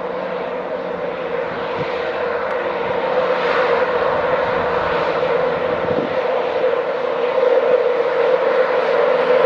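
A train moving through the station: a steady whine over a rushing noise, growing steadily louder as it approaches.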